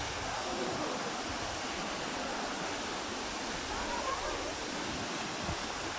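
Waterfall: a steady, unbroken rush of falling water, with faint voices over it about two-thirds of the way through.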